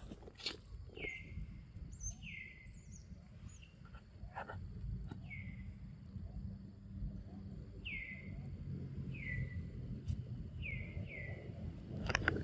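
A bird giving a short call that falls in pitch, repeated about seven times at irregular gaps of one to three seconds, over a low background rumble.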